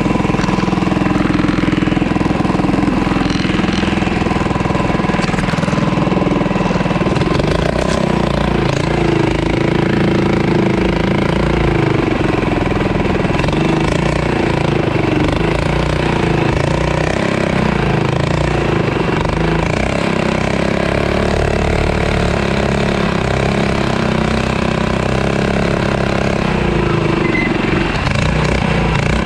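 Mini bike's small engine running throughout, its note shifting up and down a few times with the throttle.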